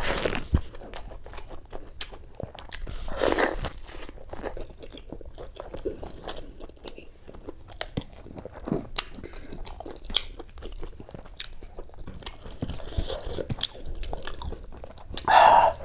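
Close-miked chewing of mutton curry and rice eaten by hand, with many small sharp wet mouth clicks. There are louder mouth sounds about three seconds in and again just before the end.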